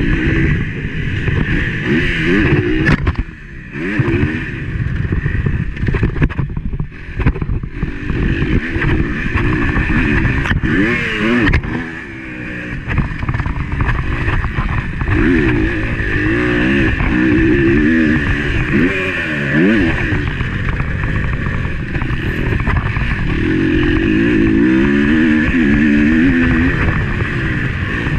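Motocross bike engine recorded on board, revving up and falling back again and again as the throttle opens and closes through the gears. The engine note drops off briefly about three and a half seconds in and again about twelve seconds in.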